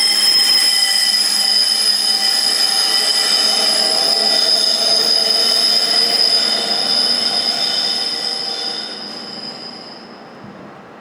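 Train wheels squealing on the rails: a steady, high-pitched squeal with several tones over a rolling rumble, dying away over the last few seconds.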